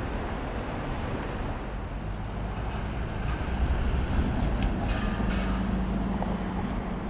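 Echizen Railway train running on the Mikuni-Awara Line, heard from trackside as a steady rumble that swells around the middle, with a few sharp clicks about five seconds in and a low hum in the second half. Wind buffets the microphone.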